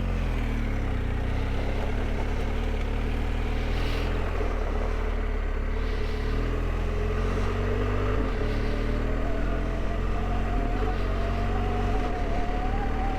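Motorcycle engine running steadily under way at low revs, with a tone that rises slightly in pitch over the last few seconds.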